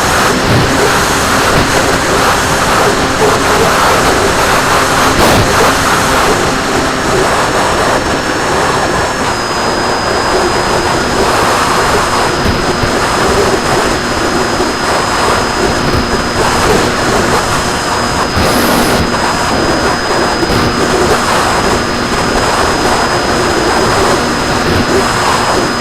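RC plane in flight as heard from its onboard camera: the motor and propeller running steadily under a loud rush of wind noise, with a thin high whine that holds one pitch.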